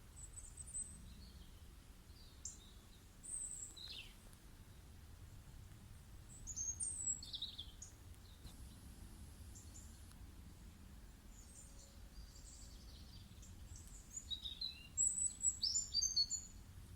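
Birds chirping at intervals in a nature soundscape. There are short high chirps and a falling call a few seconds in, and a busier, louder flurry of calls near the end, over a low steady rumble.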